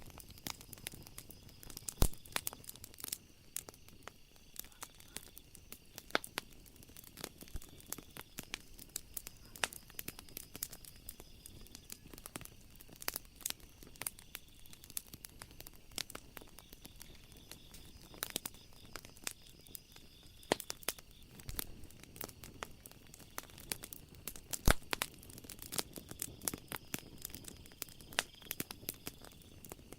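Wood fire crackling in a fireplace: a steady run of irregular small snaps and pops, with a few louder pops, the loudest about two seconds in and near the end.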